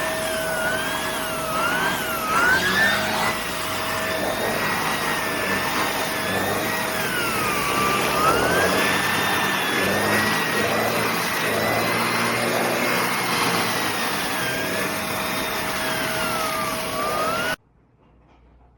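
Shark Navigator upright vacuum cleaner switched on and running. Its motor whine rises and falls in pitch over a steady rush of air, then it is switched off and cuts out suddenly near the end.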